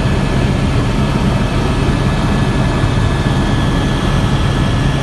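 Helicopter engine and rotor noise: a loud, steady drone with a constant high whine over it.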